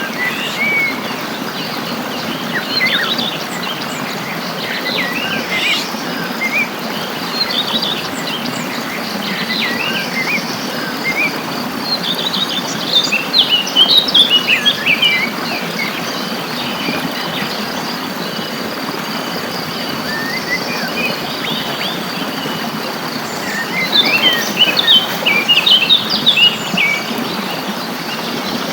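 Several wild birds chirping and singing in short, quick calls, busiest around the middle and again near the end, over a steady high insect trill and an even background hiss.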